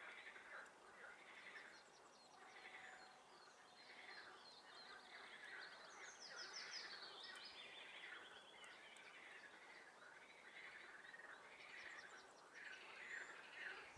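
Faint chorus of frogs calling from a swamp, overlapping pulsed calls repeating about once a second. A songbird sings a quick, higher trill over them about halfway through.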